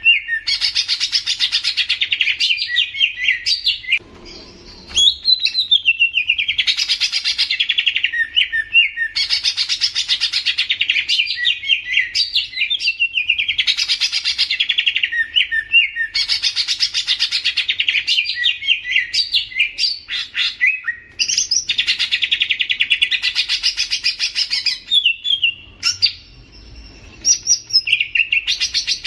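A songbird singing a run of long, fast, chattering song phrases, each two to three seconds, with short pauses between them.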